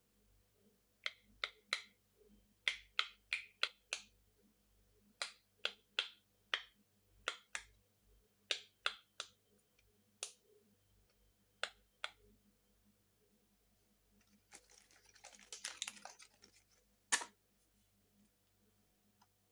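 Silicone pop-it fidget toy bubbles being pressed, giving about twenty sharp pops in quick runs. About fifteen seconds in there is a short rustling of the toy being handled, then one last pop.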